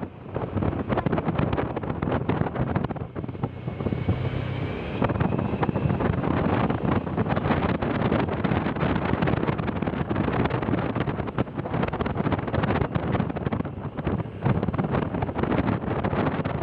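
Wind buffeting the microphone in a steady, rough rumble over a running vehicle while on the move, with a faint rising whine about four seconds in.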